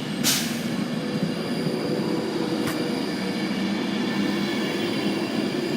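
Class 390 Pendolino electric train pulling out of the station: a steady rumble and electric hum with several steady whining tones from the traction equipment. A brief hiss sounds about a third of a second in, and a sharp click near the middle.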